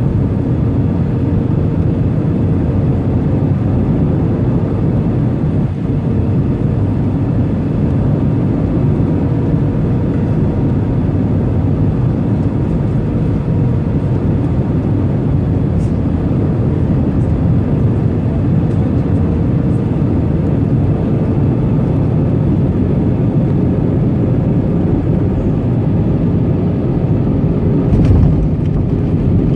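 Steady jet engine and airflow noise heard inside an airliner cabin, a constant low rush with a faint steady hum over it.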